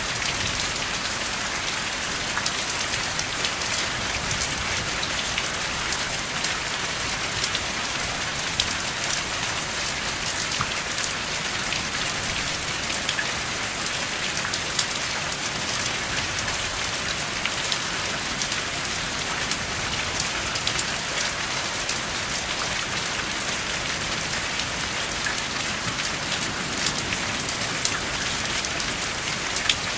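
Steady rain falling without thunder: an even hiss of rain with many separate drop impacts ticking through it.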